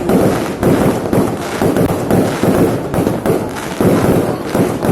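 Fireworks going off in a dense, continuous barrage, several loud bangs a second overlapping with no pause.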